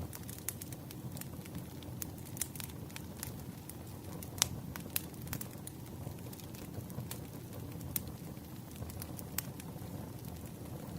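Wood fire burning: a steady low rumble of flames with irregular sharp crackles and pops of burning firewood, the loudest pop about four and a half seconds in.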